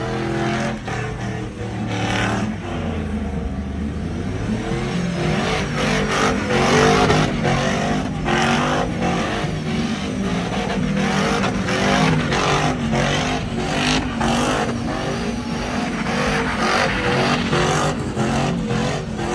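Truck engine being revved up and down over and over, its pitch climbing and dropping repeatedly, with sharp cracks and pops mixed in.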